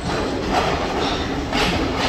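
Sri Lanka Railways Class S12 diesel multiple unit rolling into a station platform, its wheels running over the track, getting louder as it nears.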